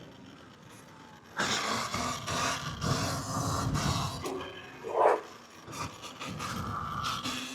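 Dirt bike opened up hard about a second and a half in, running under heavy throttle with a sharp loudest surge about five seconds in, as in a wheelie attempt.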